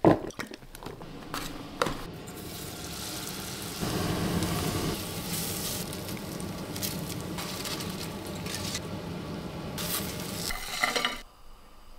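Crispy oyster mushroom strips and Thai basil sizzling in a pot on a gas stove as they are tossed and stirred. A few sharp knocks in the first two seconds, and the sizzling cuts off suddenly near the end.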